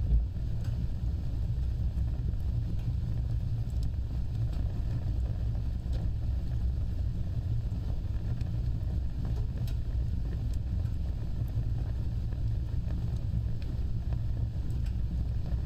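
Fire burning with a steady low roar, scattered faint crackles and one louder pop just after the start.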